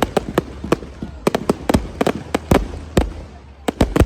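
Fireworks display: a rapid, irregular string of sharp bangs and cracks from bursting aerial shells, with a brief lull about three seconds in.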